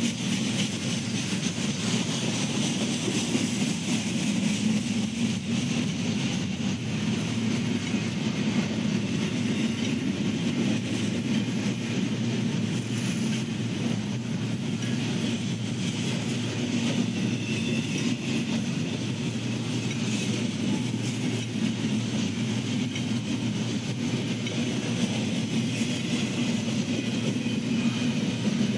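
Freight train rolling steadily past, its steel wheels running on the rails in a continuous, even rumble.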